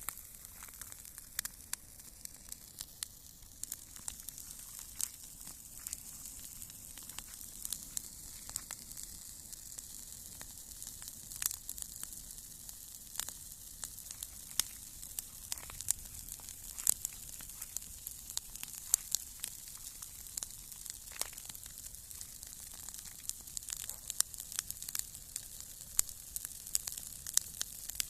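Campfire burning: a steady hiss with irregular sharp crackles and pops.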